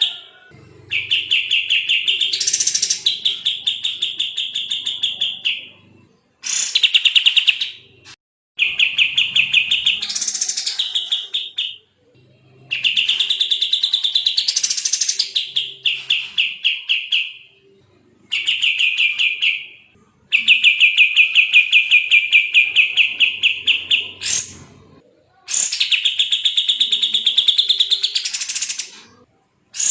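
Kapas tembak songbird singing nonstop in fast, tightly packed trills: long runs of rapid high notes a few seconds each, some with a sweep up in pitch partway through, separated by short pauses.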